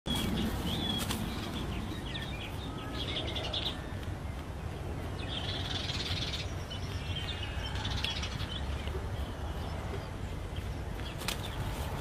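Birds chirping and twittering in short bouts, over a steady low rumble.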